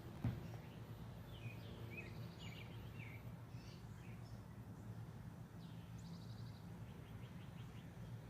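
Short bird chirps and calls scattered through, over a steady low hum of background noise. A brief thump just after the start is the loudest sound.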